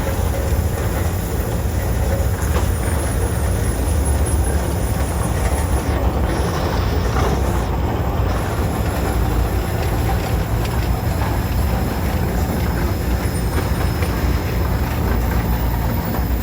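Antique tractors and engines running as they pass in a parade: a steady low rumble with no whistle sounding.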